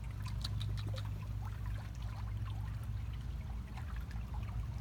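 Pool water splashing and trickling in many small irregular splashes, over a low steady rumble.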